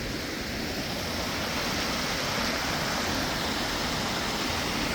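Steady rush of flowing river water, slowly getting a little louder.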